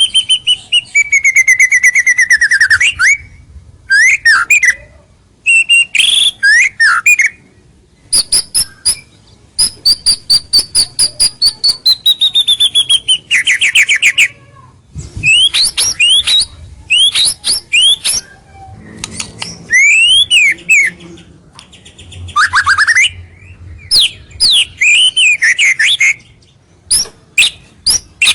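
White-rumped shama singing a loud, varied song: fast strings of short ticking notes alternating with clear sliding whistles and phrases that fall in pitch, in bursts broken by short pauses.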